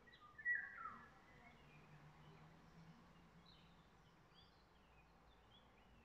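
Woodland songbirds singing: one loud, short phrase falling in pitch about half a second in, then fainter high chirps from more distant birds.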